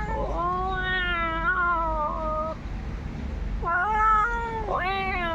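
Meowing: one long, drawn-out meow lasting over two seconds, then, after a short pause, two shorter meows in quick succession near the end.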